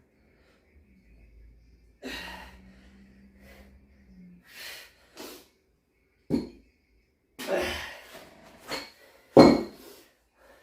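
A man breathing hard after a heavy set: a run of separate loud exhales and gasps, a few seconds apart.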